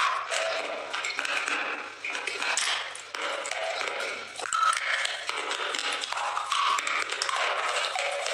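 Teeth crunching and chewing hard, brittle chalk-like pieces, a close run of small crackles and grinding.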